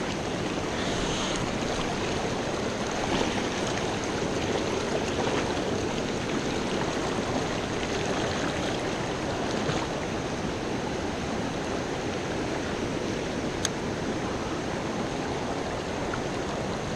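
Small mountain creek water rushing steadily, with a single sharp click about fourteen seconds in.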